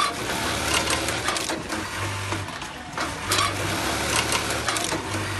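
A small machine running, with a dense clatter of rapid clicks and a low hum that cuts in and out.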